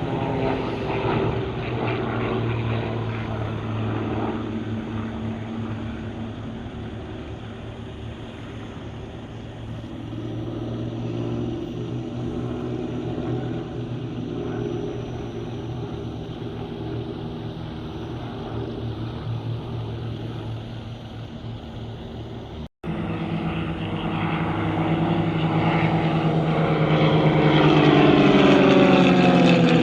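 Aircraft engines droning steadily overhead. After a short break, the sound grows louder and its pitch falls near the end as an aircraft passes close by.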